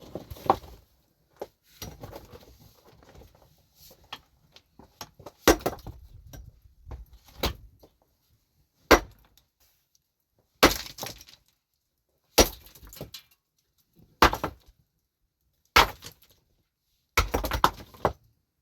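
A metal hand tool striking rock again and again, breaking stone. The first half holds scattered small knocks and clatter; from about halfway on come hard, sharp blows spaced about every one and a half to two seconds.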